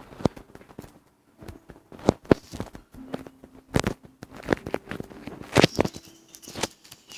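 A series of irregular knocks and clicks, like objects being handled and set down, with a faint steady hum underneath.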